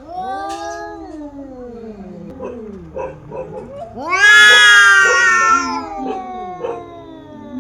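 Two female cats yowling in a fight: long drawn-out wails that slide down in pitch, with shorter cries between. The loudest wail rises sharply about four seconds in and falls away slowly over a couple of seconds.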